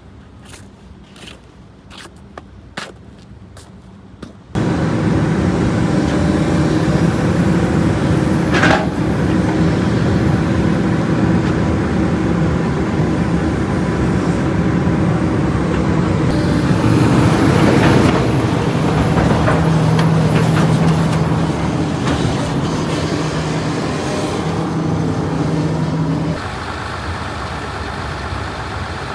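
Truck engine running at a raised, steady speed, coming in suddenly after a few faint clicks, with a short hiss of air partway through; near the end it drops to a lower idle.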